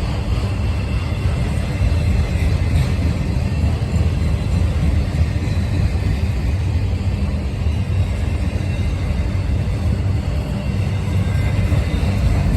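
A freight train of auto rack cars rolling past: a steady low rumble.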